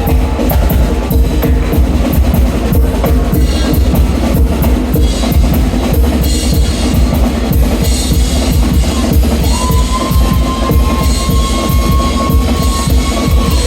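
Drum kit playing a steady beat, with bass drum and fast, even cymbal ticks over held low tones. A higher sustained note comes in about two-thirds through and holds until near the end.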